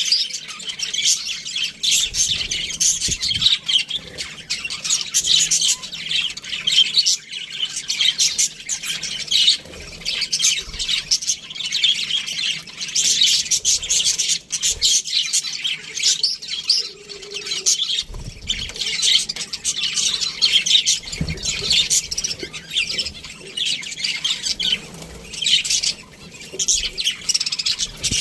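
A flock of budgerigars chirping and warbling continuously, many high chirps overlapping with occasional squawks.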